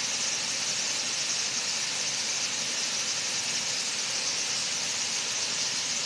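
Waterfall: a steady, high-pitched rushing hiss of falling water.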